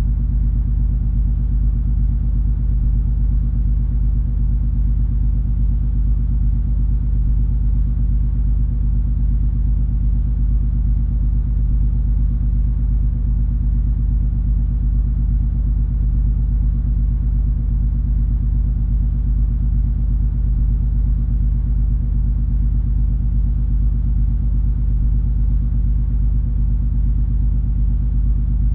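Steady low drone of the cruise ferry MS Color Magic's engines and machinery while the ship is under way, a constant deep hum that does not change.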